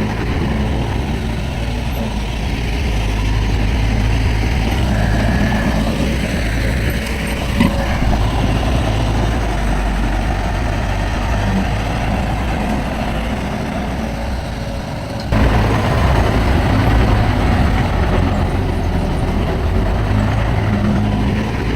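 Heavy diesel earthmoving machinery running steadily, with a brief knock about a third of the way in and a sudden jump in loudness about two-thirds of the way through.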